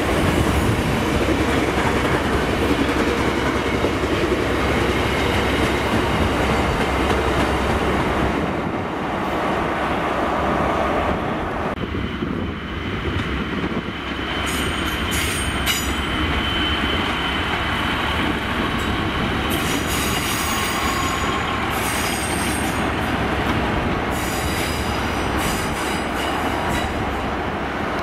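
Freight train's hopper wagons rolling past with a heavy rumble and clatter, then diesel multiple units, Class 153s, moving slowly through pointwork, their wheels squealing on and off from about halfway through.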